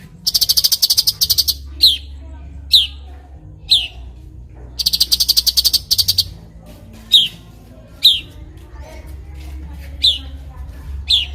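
Songbird known in Indonesia as cucak cungkok calling: sharp, downward-sweeping notes about once a second, broken twice by a loud, rapid chattering trill lasting about a second and a half. A steady low hum runs underneath.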